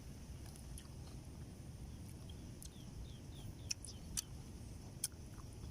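Faint outdoor ambience: a steady low rumble with a run of short high chirps midway and a few sharp clicks in the second half.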